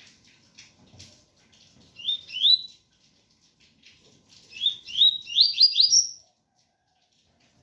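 Double-collared seedeater (coleiro) singing the 'tui tui' song: a short phrase of two rising whistled notes about two seconds in, then a longer run of rising notes near the middle, ending on a higher one. Faint rain patter sounds throughout.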